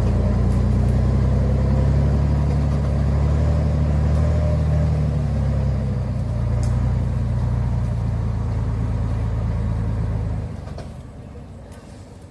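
Truck engine running steadily and loud, its pitch wavering a little, then dropping away abruptly about ten and a half seconds in.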